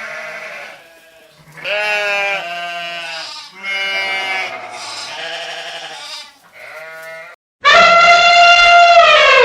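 Bleating, four or five wavering calls in a row. Near the end comes a louder, longer call, held at a steady pitch for about two seconds.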